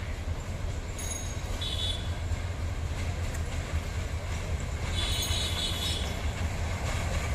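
Train running on the rails with a steady low rumble, its wheels squealing in short high-pitched spells, about two seconds in and again for about a second near the end.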